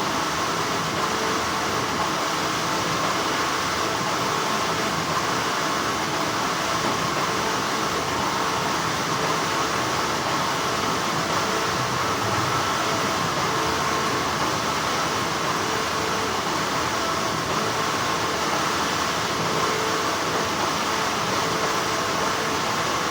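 Steady hum of textile factory machinery: a constant, even drone with a few faint steady tones in it.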